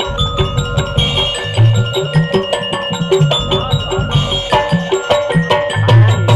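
Hadrah ensemble playing: a fast, even rhythm of hand-struck frame drums and kendang with deep bass-drum strokes, under a held melody line.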